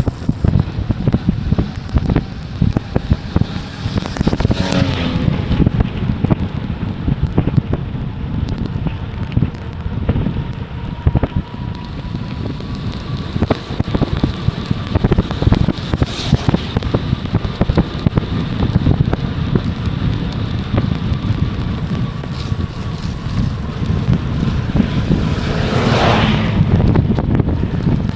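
Wind buffeting the microphone of a mountain bike ride, over constant rattling and rolling noise from the bike. Twice, about five seconds in and near the end, a louder rushing hiss swells and fades.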